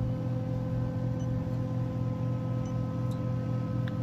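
Refrigeration condensing unit running with a steady electrical hum, a few faint high ticks over it.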